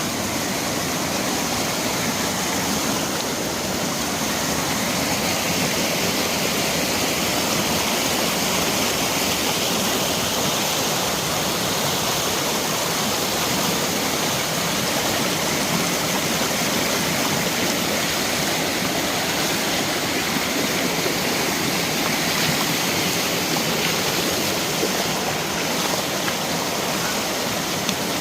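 Mountain stream rushing over rocks, a steady, even rush of water with no breaks.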